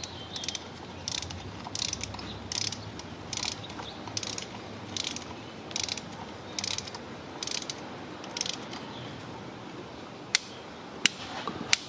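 Click-type torque wrench ratcheting a new spark plug down, in short strokes about one a second. Near the end come three sharp clicks as the wrench reaches its set torque of 10 to 14 newton metres.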